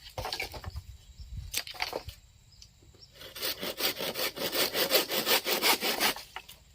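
Hand saw cutting through wood in quick, even back-and-forth strokes, starting about three seconds in, after a few scattered knocks.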